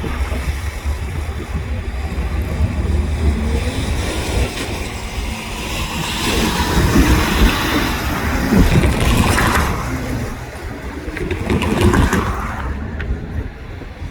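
A train passing: a low engine rumble at first, then loud wheel and rail noise that swells in the middle and eases near the end.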